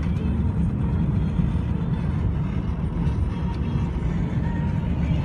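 A car driving: a steady low rumble of engine and tyres with no sudden events.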